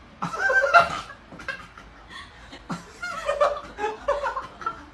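Human laughter, chuckling in short repeated bursts.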